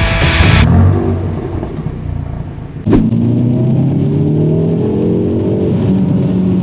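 Hyundai i30 N Fastback's 2.0-litre turbocharged four-cylinder engine accelerating, with a sudden sharp crack about three seconds in. Its pitch then rises steadily, drops near the end and holds steady. Rock music cuts off in the first second.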